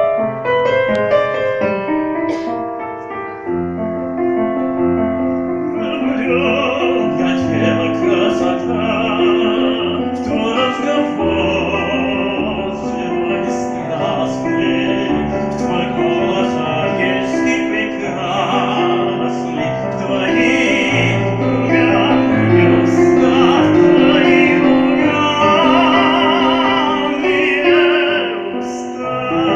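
Piano accompaniment, joined about six seconds in by a solo voice singing in an operatic style with wide vibrato.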